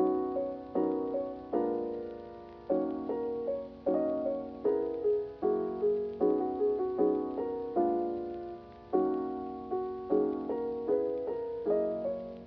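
Background music: a gentle piano or electric-piano tune of struck chords, each fading away before the next.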